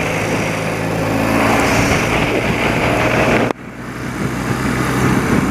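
An old BMW motorcycle's engine running under way, with steady wind and road rush. About three and a half seconds in, the whole sound cuts out abruptly and then fades back up.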